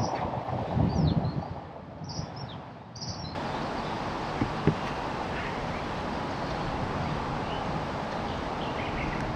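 Outdoor ambience of small birds giving short high chirps over some low rustling and handling noise. Partway through it changes abruptly to a steady hiss with a few faint chirps and a couple of light knocks.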